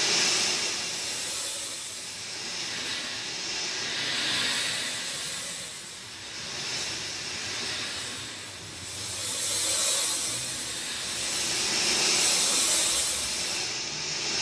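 Rain falling steadily, a dense hiss that swells and eases every few seconds.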